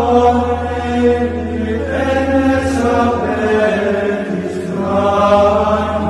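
Latin plainchant: voices sing long, slow, melismatic notes that glide from pitch to pitch over a steady low drone.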